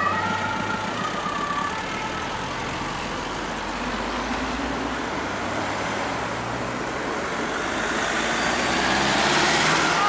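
German two-tone emergency siren (Martinshorn) on a passing car, fading away within the first couple of seconds. Road traffic noise follows, swelling as a vehicle approaches near the end.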